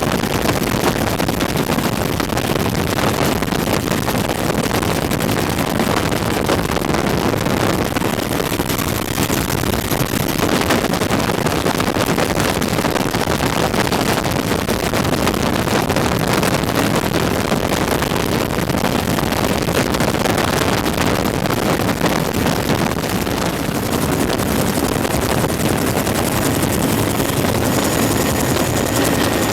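Bell UH-1 Huey helicopter in flight, heard from on board: a loud, steady rush of turbine, rotor and wind noise.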